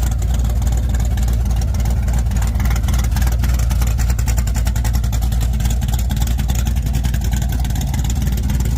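383 stroker small-block Chevy V8 in a 1978 Chevrolet Malibu, idling steadily through an exhaust fitted with electric cutouts; the running is loud and even, with no revs.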